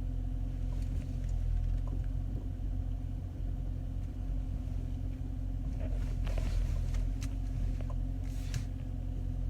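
Steady low rumble with a faint hum, with a few faint soft noises about six seconds in and again near the end.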